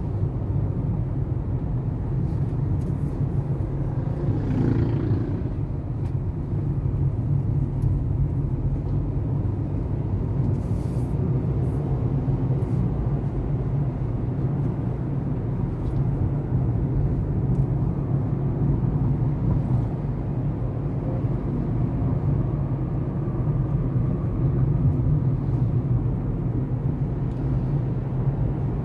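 Steady low rumble of a moving road vehicle, engine and road noise together, with a brief louder swell about five seconds in.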